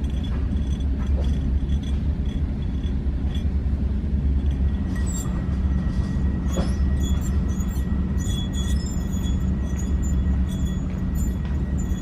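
Old clutch pilot bearing from a Honda S2000 spun by hand, giving a steady rough rolling rumble. A thin whine comes in about halfway through. The bearing is being replaced and its roughness is shown off.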